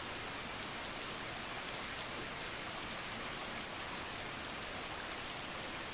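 Steady rain falling, an even hiss with scattered sharp drop ticks, two a little louder about halfway through.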